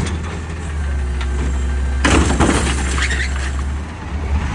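Peterbilt 520 garbage truck's diesel engine running with a steady low drone. About two seconds in comes a sudden loud crash and rush of noise that dies away within about half a second, and the drone eases near the end.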